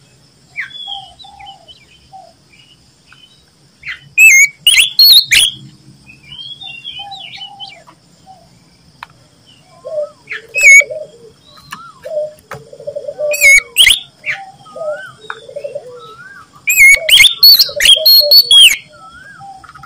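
Oriental magpie-robin singing loudly: four bursts of rich, fast whistled song, with softer whistles and lower warbled phrases in the gaps between them.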